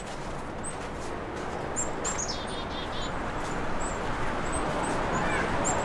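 Small birds chirping: short high calls repeat throughout, with a quick run of falling notes about two seconds in. A low steady background noise lies underneath.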